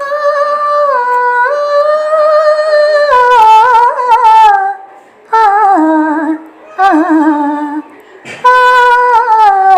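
A woman singing a wordless, unaccompanied vocal passage: long held high notes and quick ornamented runs, in four phrases broken by short breaths.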